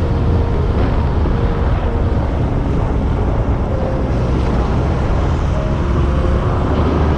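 Yamaha YZF-R1's inline-four engine running at a steady cruise with wind noise as the motorcycle is ridden along.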